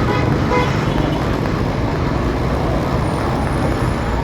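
Steady motorcycle engine and city traffic noise while riding, with a short horn toot about half a second in.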